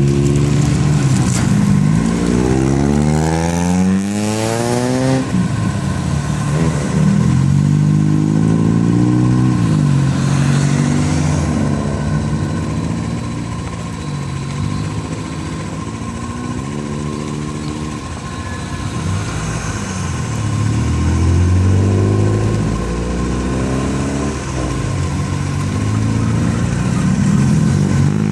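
Small cars' engines revving and accelerating one after another as they drive off, the pitch climbing in steep sweeps a few seconds in and rising and falling again through the rest.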